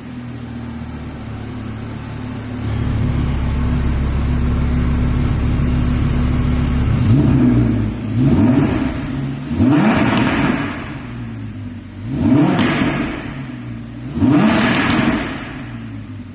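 Audi R8 V10 Plus's V10 engine idling steadily, then revved in about five quick throttle blips, each climbing and then dropping back.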